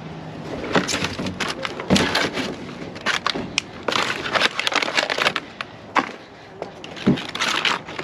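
Boxes and plastic food packaging being handled and loaded: irregular knocks, rustling and crinkling.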